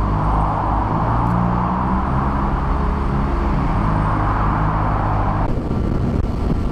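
Inline-four engine of a 2007 Honda CBR600RR running under way, its pitch stepping up and down, with wind rushing loudly over the helmet-mounted microphone. About five and a half seconds in, the wind noise drops away suddenly and a lower, steadier engine sound remains.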